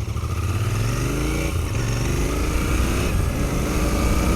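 Royal Enfield Continental GT650's parallel-twin engine pulling up through the gears while riding. Its pitch climbs and drops back at each shift, about three times, under steady wind noise.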